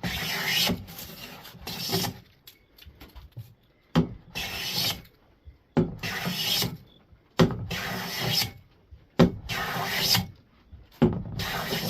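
A hand plane shaving the edge of a wooden board in a series of short strokes, about eight of them, each under a second with brief pauses between. The strokes are taking down a high corner to bring the edge square to the faces.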